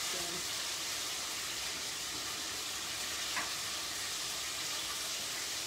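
Chicken pieces frying in hot oil: a steady sizzle, with one light click about three and a half seconds in.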